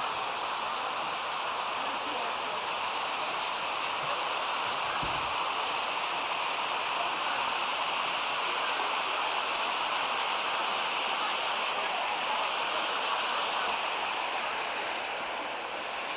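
Steady rush of water from a mountain creek tumbling over a cascade of small waterfalls and rapids, an even, unbroken sound.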